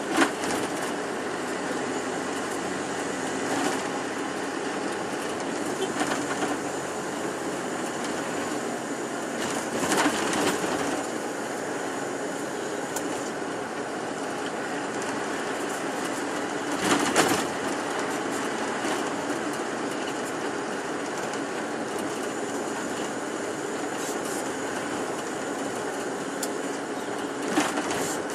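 Ride noise inside a moving bus: a steady engine and road rumble, with a few short knocks and rattles from bumps, about a second in, around ten and seventeen seconds in, and near the end.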